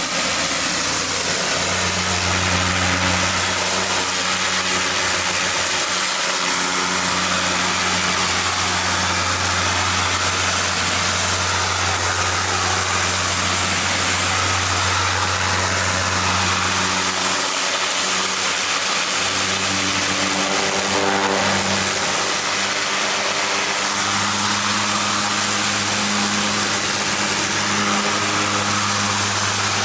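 Pressure washer's engine running steadily under load, with the hiss of a turbo nozzle spraying high-pressure water onto concrete.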